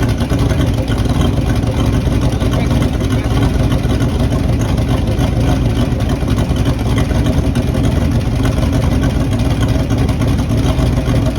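Turbocharged small-block Chevy V8 in a race truck running steadily at idle, loud and choppy, with no revving.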